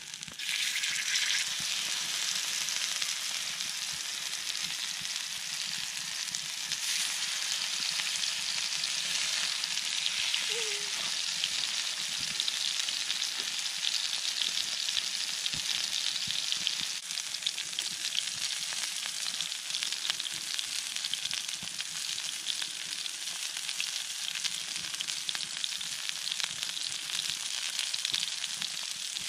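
Onions and burger patties sizzling in a long-handled Muurikka frying pan over a campfire. The frying hiss is steady with fine crackle and grows fuller about seven seconds in.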